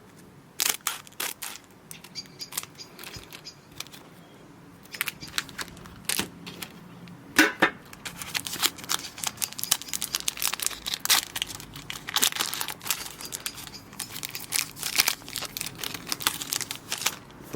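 Foil trading-card booster pack being crinkled and torn open, a long run of sharp crackles and rips with one loud rip partway through.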